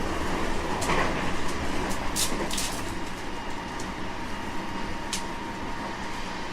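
Running sound of a JR West 225 series 5000 subseries electric train heard from inside the car: a steady rumble of the wheels on the track with a faint steady tone and a few sharp ticks.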